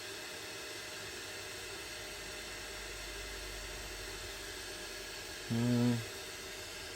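Steady fan hiss from a 3D printer, with a short low hum about five and a half seconds in.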